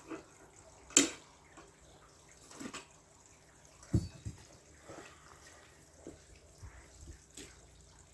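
Scattered light clicks and knocks: a sharp click about a second in, a low thump about four seconds in, and fainter ticks between.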